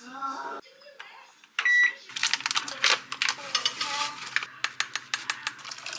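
A kitchen appliance gives one electronic beep, then a steady low appliance hum starts about two seconds in, with utensils clicking and scraping against dishes over it.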